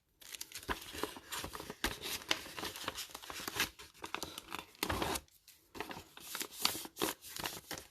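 Crinkling and rustling of sealed foil booster-pack wrappers and paper envelopes being handled and packed, in a run of irregular crackles and scrapes with a couple of louder rustles about five and six and a half seconds in.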